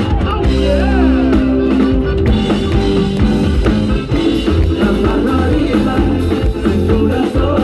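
Live band playing an upbeat dance song, with drum kit and a strong bass line.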